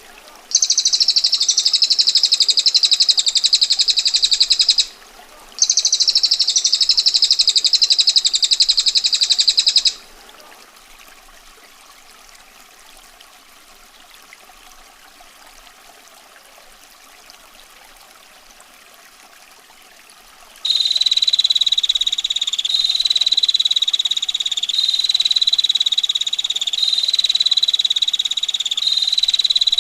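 Songbirds, a cililin and a female bar-winged prinia, giving long, fast, buzzing trills: two loud trills in the first ten seconds with a short break between them, then a quieter stretch of a steady water hiss, and from about two-thirds of the way in a trill that repeats in stretches of about a second each.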